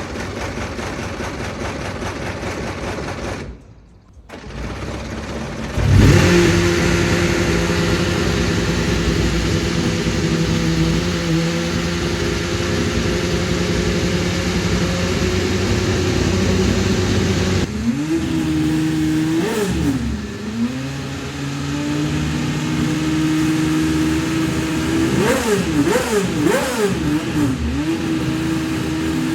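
Honda HSV-010 GT race car's 3.4-litre V8 starting: after a few seconds of whirring it fires about six seconds in and settles into a steady idle. About eighteen seconds in it is revved up and down, and near the end it is blipped in a quick series of short revs.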